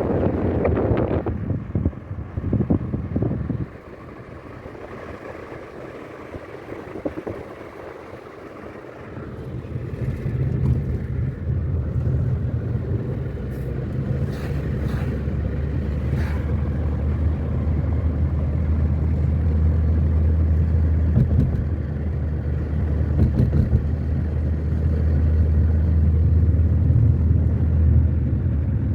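Car on the road: a steady low rumble of engine and road noise that builds up about ten seconds in and holds, after a brief burst of wind noise at the start.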